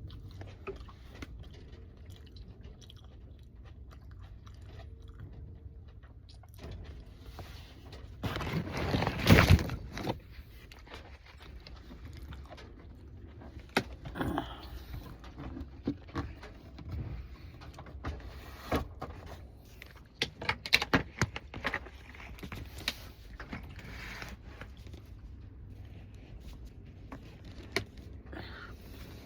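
A person eating close to the microphone: biting and chewing with scattered crunches and clicks, and a louder noisy stretch about eight seconds in.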